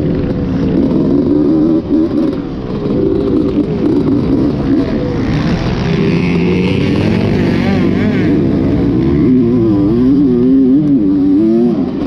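Motorcycle engine running under changing throttle, its pitch rising and falling repeatedly.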